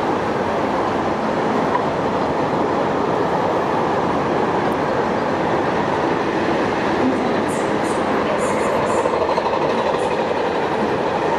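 A train running at the station, giving a steady rolling rumble. A few short high hissing streaks come about two-thirds of the way through.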